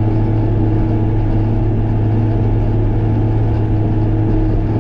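Diesel engine running at a steady speed, a constant low drone.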